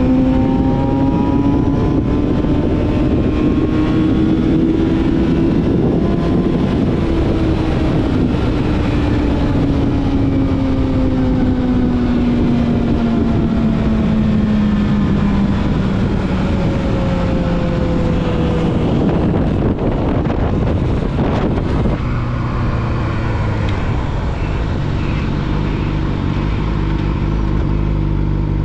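Yamaha YZF-R6 inline-four with a full aftermarket exhaust, running under way with wind noise. The revs rise for the first few seconds, then fall slowly as the bike eases off. After a sudden change about twenty seconds in, it holds low, steady revs.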